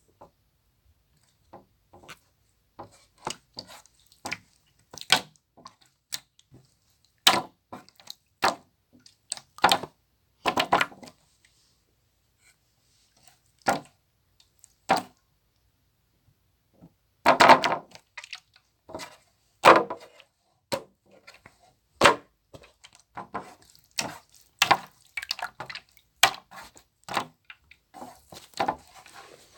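Slime being played with by hand: irregular sticky clicks and popping of trapped air, with a few longer squishes.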